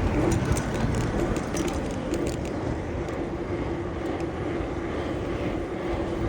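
Steady road and wind rush from riding a bicycle through city traffic, with a steady engine-like hum from nearby vehicles and a few light ticks near the start.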